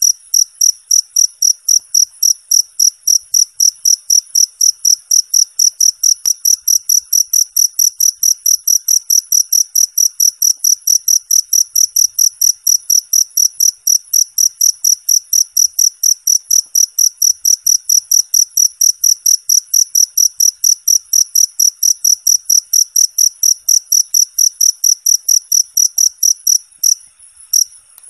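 Field cricket (jangkrik) chirping loud and shrill in a steady, even rhythm of about four chirps a second; the rhythm briefly falters near the end.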